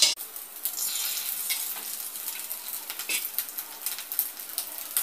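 Egg-dipped bread sizzling as it shallow-fries in a little oil in an aluminium kadai: a steady hiss with a few light clicks.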